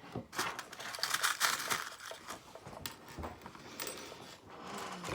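Rustling and crinkling with scattered light clicks and taps, from props being handled and moved.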